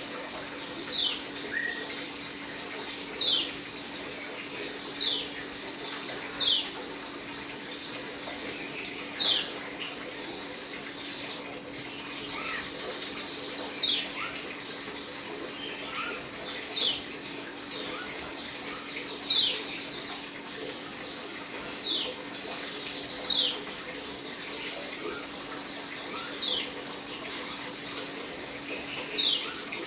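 A pleci dakun, a white-eye, gives short, sharp chirps that sweep downward, one every second or two, over a steady rushing background. These are the early calls (ngeriwik) of a newly kept bird beginning to settle during its dew-exposure conditioning.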